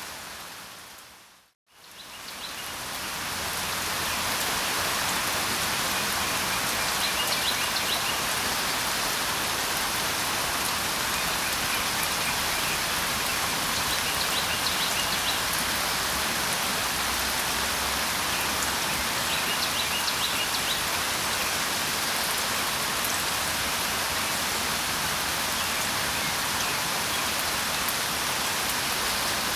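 Steady rain falling. It dips to silence about a second and a half in, then fades back up, with faint short bird chirps a few times.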